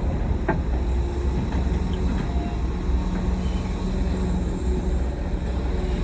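Heavy diesel earthmoving machinery running steadily at a constant engine speed, a low even drone, with a brief faint knock about half a second in.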